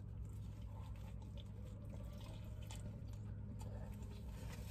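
Faint chewing and small wet mouth noises from a man eating a fried chicken sandwich, with scattered soft clicks over a steady low hum.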